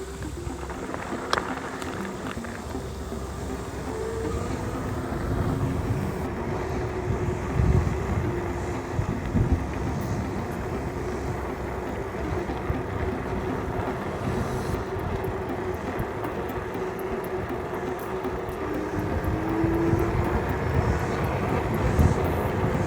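Actbest Cozy fat-tire electric bike on the move: a steady electric-motor whine that drifts a little in pitch, over tyre rumble and gusts of wind on the microphone. A sharp click comes about a second in.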